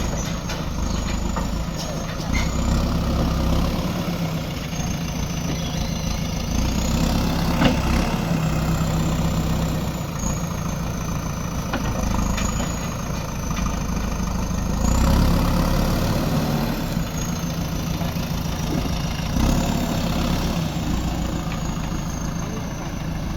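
Diesel engine of a JCB 3DX backhoe loader running, swelling and easing as it works. A thin high whine wavers up and down over it, and there is a sharp knock about eight seconds in.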